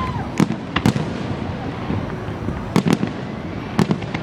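Aerial fireworks going off: about six sharp bangs, a single one twice in the first second, then two close pairs about a second apart near the end, over a steady background of rumble and crackle.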